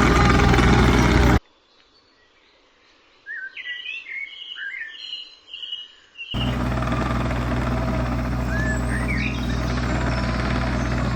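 Digger engine running steadily, cut off suddenly about a second and a half in. A quick run of bird chirps then sounds in a quiet gap. The engine comes back just as abruptly after about six seconds, with one more short bird chirp over it.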